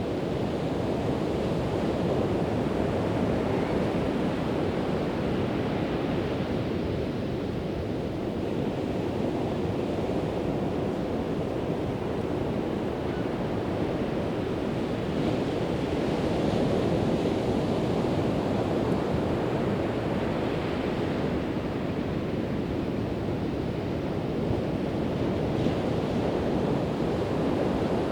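Pacific Ocean surf breaking and washing up a sandy beach: a continuous rushing wash that swells and eases every few seconds, with some wind.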